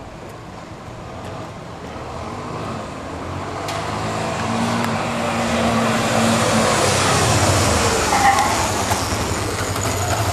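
Single-cylinder trail motorcycle engine coming closer, getting steadily louder over the whole stretch.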